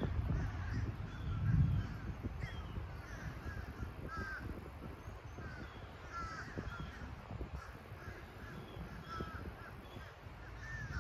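Birds calling with short repeated chirps throughout, over a low rumble that is louder in the first couple of seconds.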